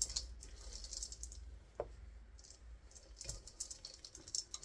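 Faint, irregular clicks and scrapes of a utensil working stiff chocolate chip cookie dough in a mixing bowl.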